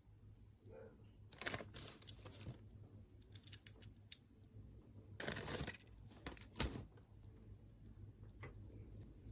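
Quiet handling of toy parts and packaging: scattered light plastic clicks and short rustles, with a longer rustle a little past the middle and a sharp click just after it.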